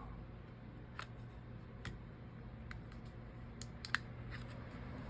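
Scattered light clicks and taps from small tools and phone parts being handled during a phone screen replacement, about seven in all, irregularly spaced, the sharpest about four seconds in, over a low steady hum.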